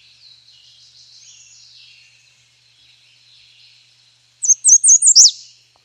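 American redstart singing: a quick run of about five high, thin notes ending in a downslurred note, about four seconds in, with fainter bird song chattering in the background earlier.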